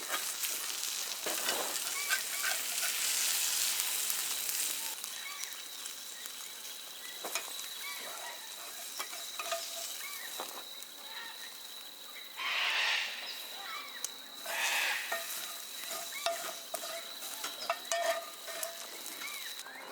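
Food frying in a hot pan over a campfire: a steady sizzle with fine crackling, loudest in the first few seconds, with two short louder hisses a little past halfway.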